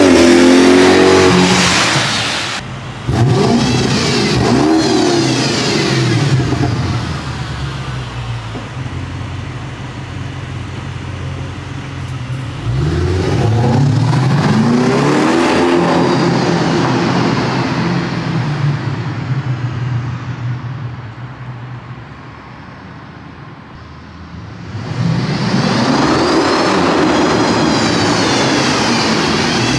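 BMW 750Li's N63 twin-turbo V8 running through catless downpipes, dual X-pipes, bottle resonators and Vibrant mufflers. It revs and accelerates in several hard pulls, the exhaust note sweeping up and back down each time. It eases off to a quieter stretch about twenty seconds in, then pulls hard again near the end.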